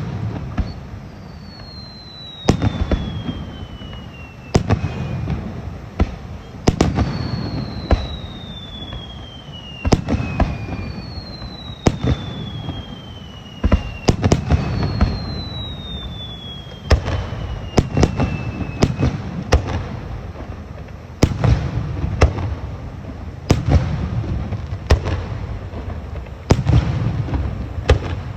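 Aerial fireworks bursting in a steady series of booms, each with a low rolling echo. Four long whistles fall in pitch over two to three seconds each during the first two-thirds.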